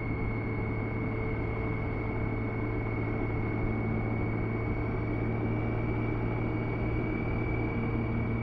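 BMW K1600B motorcycle cruising at a steady speed: the six-cylinder engine running smoothly under a constant hum and whine, with road and wind noise.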